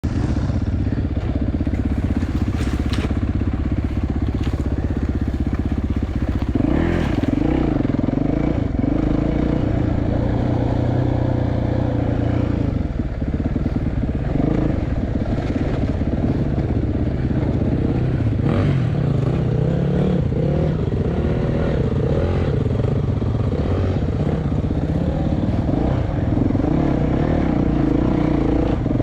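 Yamaha enduro dirt bike engine running under way, its pitch rising and falling as the throttle is opened and closed.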